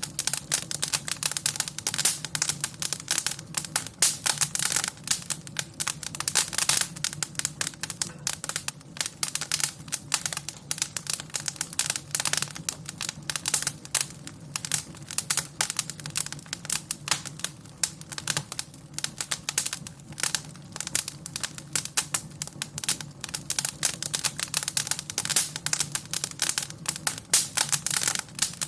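Wood fire in a fireplace crackling: dense, irregular snaps and clicks over a faint steady low rumble.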